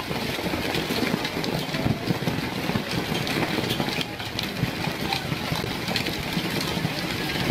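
Hailstones pelting down in a dense, steady clatter of many small impacts.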